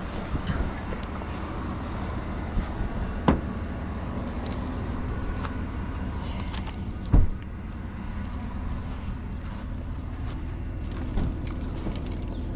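A motor vehicle running steadily with a low hum, heard from inside, with a sharp knock about three seconds in and a louder thump about seven seconds in.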